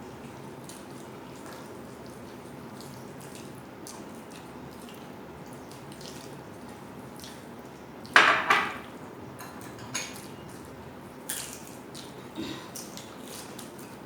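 Plates and utensils clinking and knocking while people eat, with one louder clatter about eight seconds in and a few lighter knocks after it.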